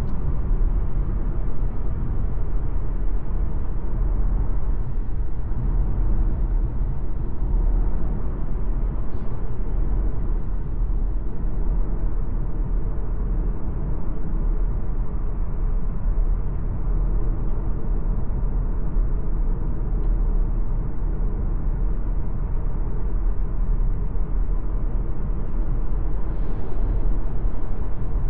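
MG ZS Hybrid+ on the move, a steady low rumble of tyre and drivetrain noise without clear changes.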